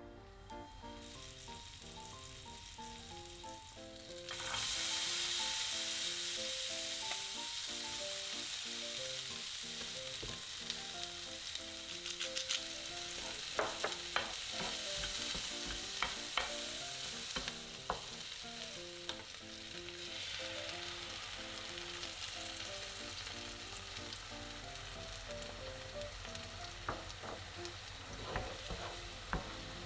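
Food sizzling in a hot frying pan, starting suddenly about four seconds in and going on steadily, with a few sharp clicks in the middle and near the end. Soft piano music plays underneath.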